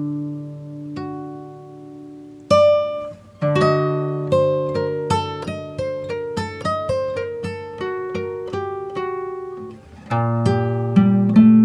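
Acoustic guitar music: a slow picked melody of single plucked notes that ring and fade. One chord is struck about two and a half seconds in and another, louder, near the end, followed by quicker picking.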